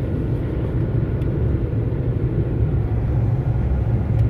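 Steady low drone of an Iveco Stralis truck cruising at road speed, its engine and tyre noise heard from inside the cab.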